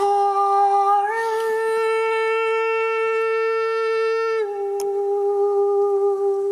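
A voice holding one long, steady note rich in overtones. The note steps up a little about a second in and drops back about four and a half seconds in. Two faint clicks come near the end.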